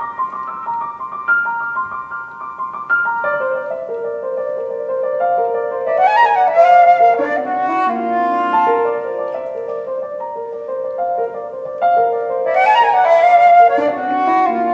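A flute and piano duet in a contemporary classical piece. The piano plays alone at first, then the flute enters with held notes, breaking into quick flourishes twice.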